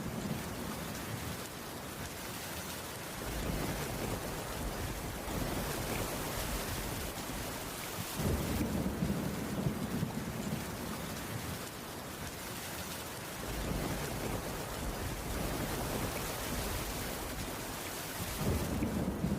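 Heavy rain falling steadily on a cabin roof, with low rumbles swelling and fading three times.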